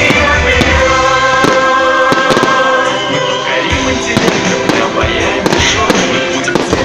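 Fireworks bursting, with many sharp bangs and crackles in quick succession, over music with held notes.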